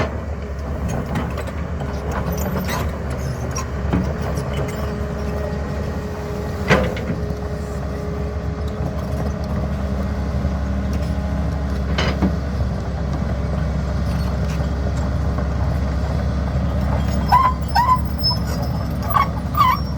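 Diesel engine of a CAT 320 hydraulic excavator running steadily under work, with a couple of sharp metallic knocks partway through.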